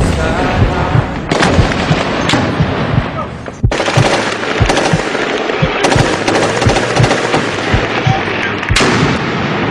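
Battle sounds: dense gunfire with rapid shots and heavy booms following one another throughout.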